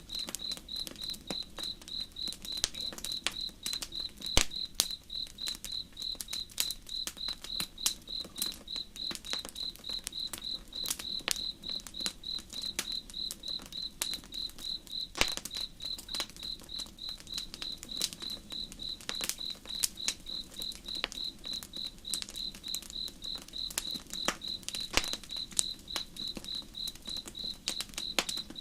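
Crickets chirping steadily at about three chirps a second. A campfire crackles and pops irregularly over them, with a faint low wash beneath.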